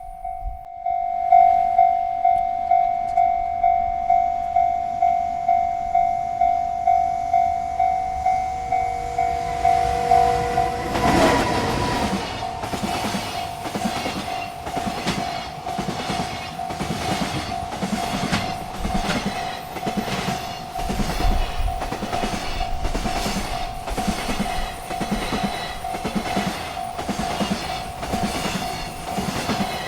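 Railroad crossing bell ringing at about two strokes a second. About eleven seconds in, a freight train reaches the crossing, and its wagons roll past with a regular clickety-clack of wheels over rail joints while the bell keeps ringing.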